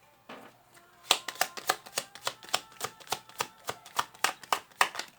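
A deck of oracle cards being shuffled by hand: a quick, even run of card slaps, about five a second, starting about a second in and stopping near the end.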